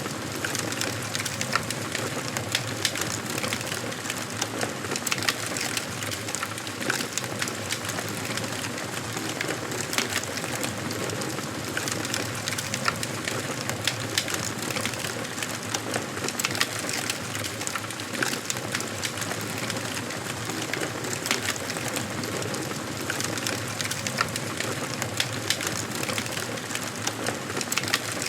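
Wood fire crackling in a fireplace: a steady hiss of burning with frequent small, irregular pops and snaps from the burning logs.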